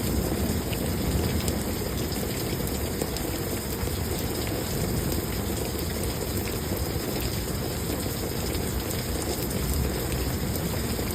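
Heavy thunderstorm rain falling steadily, an even hiss with a low rumble underneath.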